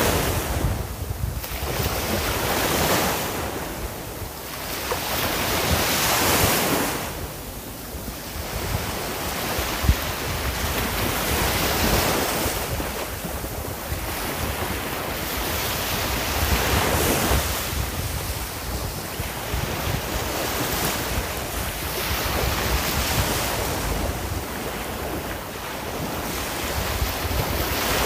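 Sea waves breaking and washing on the shore, the surf swelling and falling back every few seconds, with wind rumbling on the microphone.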